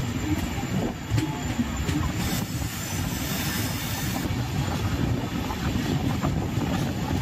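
Moving passenger train: a steady rumble of wheels running on the rails, with a few faint clicks.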